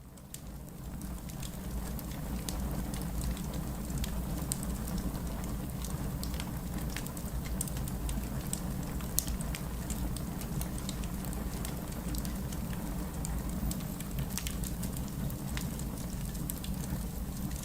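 Steady rain mixed with a crackling wood fire, the fire's sharp pops scattered through the hiss and one louder pop about nine seconds in. The sound fades up over the first second or two.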